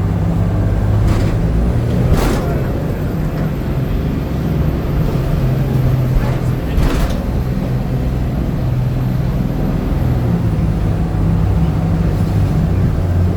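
Tour boat's engine running steadily at speed with rushing water, broken by a few sudden thumps, the loudest about two seconds in and another near seven seconds.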